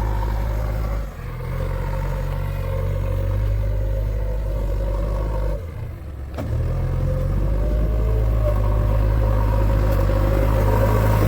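Diesel engine of a JCB 3DX backhoe loader running steadily under work. It drops briefly about a second in and again around six seconds in, then picks back up a little louder.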